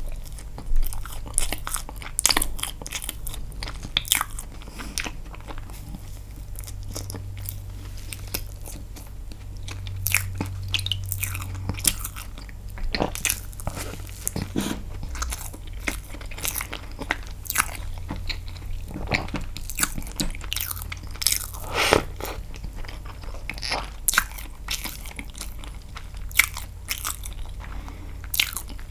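Close-miked eating sounds: biting and chewing castella sponge cake dipped in milk, a string of irregular short clicks and smacks.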